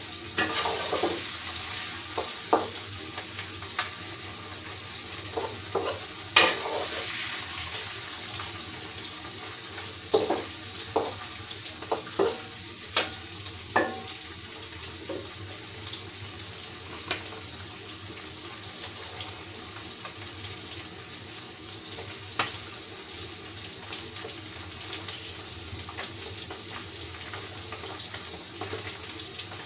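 Food frying in oil with a steady sizzle, and metal utensils clinking against the pan several times in the first half.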